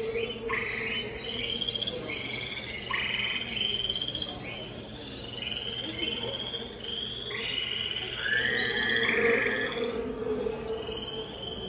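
Chorus of rainforest animals: many overlapping trilling calls of frogs and insects, repeating throughout, with a lower croaking note coming and going.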